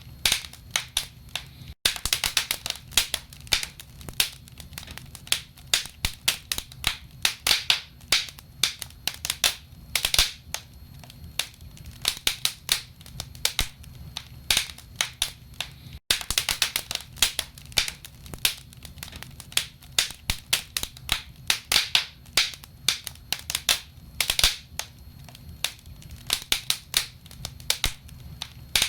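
Wood fire burning in a fireplace, the logs crackling and popping in a dense, irregular stream of sharp snaps over a faint low rumble. The sound cuts out for an instant twice, about two seconds in and about halfway through.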